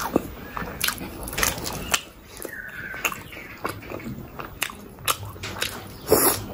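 Close-miked chewing of steamed chicken momos, with wet mouth clicks and smacks, then a big bite into another momo about six seconds in.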